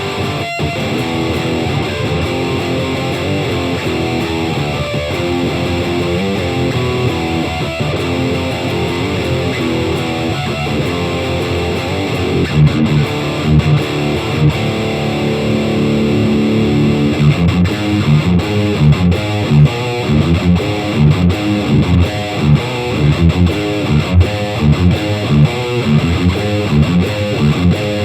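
Electric guitar in D standard tuning, played through a Fender Champion 100 amp with no pedals, playing a riff. Held, ringing chords give way past the middle to a quick, choppy rhythm of short repeated notes.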